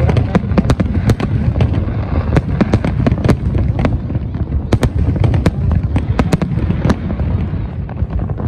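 Aerial fireworks shells bursting in rapid succession: sharp bangs and crackles several times a second over a continuous deep rumble.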